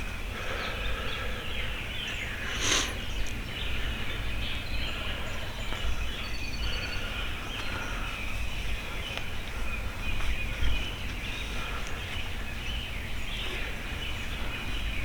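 Wild turkeys gobbling from nearby roosts amid a chorus of songbirds, with one louder burst about three seconds in.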